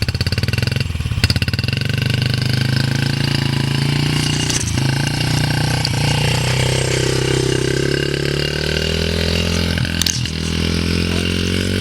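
Engine of a child's small dirt bike running close by. It putters unevenly at first, then runs steadily, dips in pitch about halfway through and rises again near the end.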